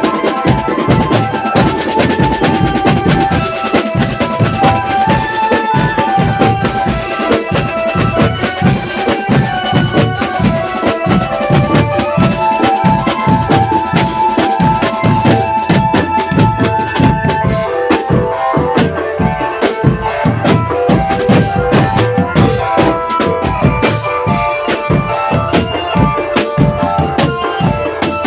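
Marching drum band playing: drums beat a fast, steady rhythm under a melody of held notes.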